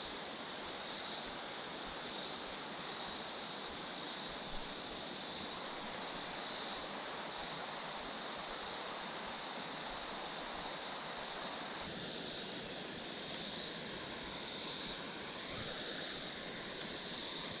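Creek water rushing steadily under a chorus of insects whose high buzzing swells and fades about once a second.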